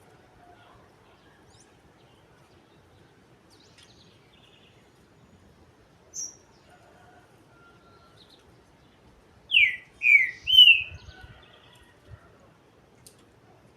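Green-winged saltator (trinca-ferro) calling: a single short high note about six seconds in, then about ten seconds in a short phrase of three loud, quick falling notes.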